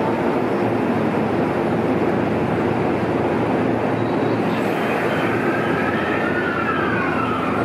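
Electric train running past a station platform: a steady rumble of wheels on rail. About five seconds in, a faint high whine rises and then falls away.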